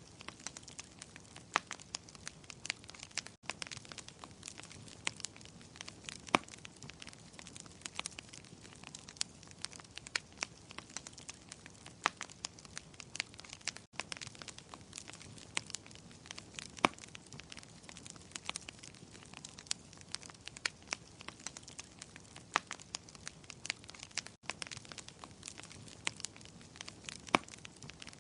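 Wood fire crackling, with frequent sharp pops and snaps of different loudness over a soft steady hiss. There is a brief silent break about every ten seconds.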